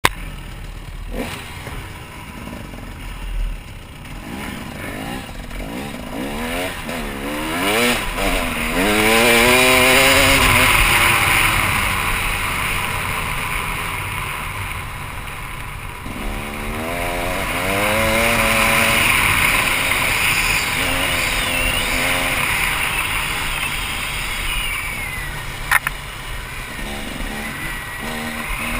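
KTM 300 EXC two-stroke dirt bike engine being ridden, its pitch repeatedly rising and falling as the throttle is worked through the gears. A single sharp click sounds near the end.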